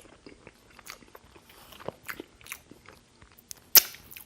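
Close-miked chewing of a mouthful of poutine, fries, cheese curds and gravy: irregular wet mouth clicks and smacks, with one much louder sharp smack near the end.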